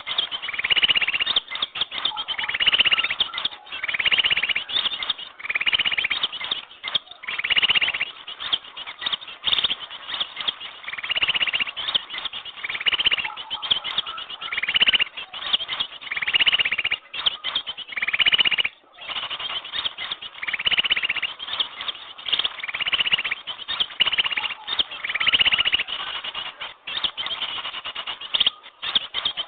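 Bird-lure recording of small birds chirping and twittering busily without pause, with louder, denser bursts of calls every couple of seconds. It is a lure call meant to draw small birds in.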